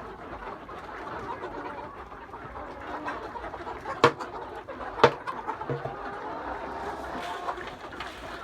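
A flock of chickens clucking and chattering steadily, with two sharp knocks about four and five seconds in.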